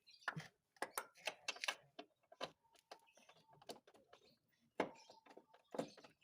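Hand tools clicking and knocking on metal during engine-mount work: scattered light clicks and knocks at uneven intervals, a couple followed by a short ring.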